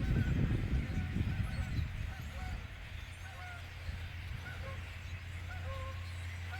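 A large flock of birds calling overhead, many short honking calls overlapping, with geese among them. A low rumble on the microphone fades out about two seconds in.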